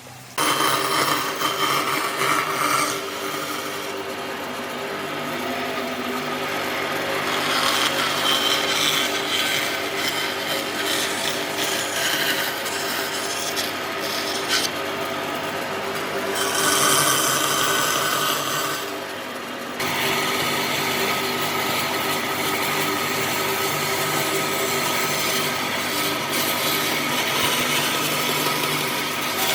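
A power tool abrading wood, a steady motor hum under a rasping scrape. It starts abruptly just after the start, eases for a moment about two-thirds of the way through, then carries on.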